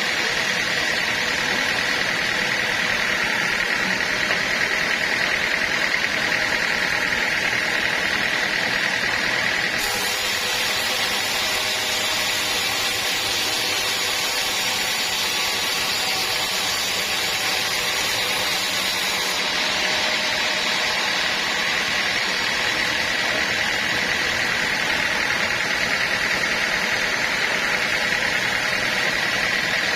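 Sawmill saw running steadily through a log, a constant high whine over a hiss of machine noise, with no breaks.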